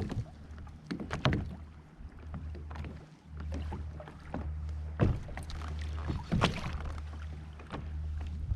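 Sharp knocks and bumps of fishing gear being handled against a kayak's hull, the loudest about a second in, at five seconds and at six and a half seconds, over a steady low hum.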